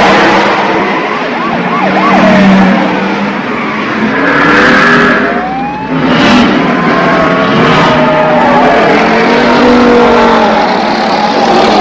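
Car chase: several car engines running hard, with a police siren wailing through the pursuit.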